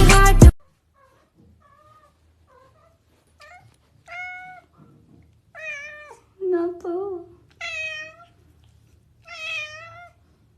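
Kitten meowing: about five short, high-pitched meows a second or so apart, starting about four seconds in, with a lower call among them and a few faint softer mews before. Music cuts off about half a second in.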